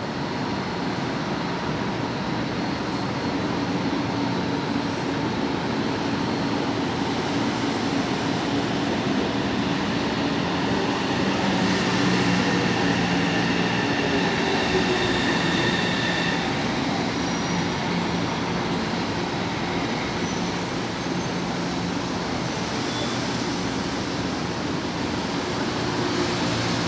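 São Paulo Metro Line 3 train: a steady rumble with whining tones, a little louder around the middle.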